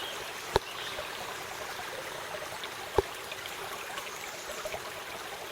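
Creek water running steadily, an even rushing hiss. Two sharp clicks cut through it, about half a second in and again about three seconds in.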